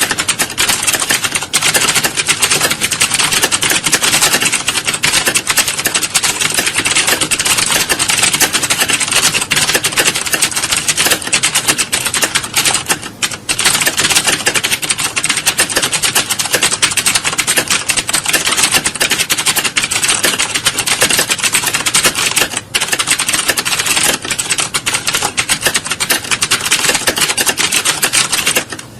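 Many computer keyboards being typed on fast at once: a dense, continuous clatter of key clicks, easing off briefly about halfway through and again a little later.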